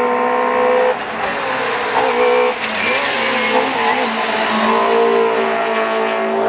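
Rally car engine at high revs on a stage. The pitch drops sharply about a second in, wavers as the driver works the throttle and gears, and climbs again around four to five seconds in.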